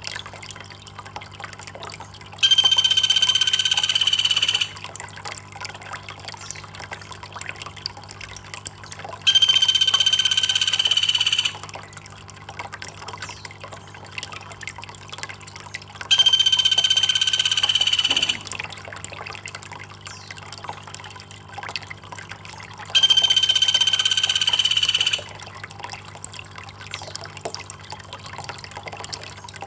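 Trickling water running steadily under a loud, steady high-pitched call, about two seconds long, that repeats four times at even intervals of about seven seconds, as in a looped bird-training track.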